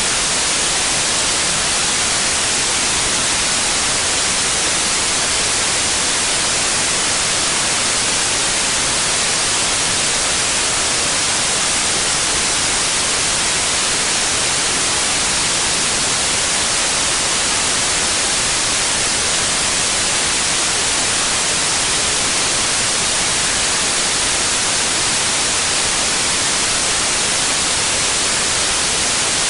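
Steady white noise: an even, unbroken hiss, brightest in the high frequencies, with no changes.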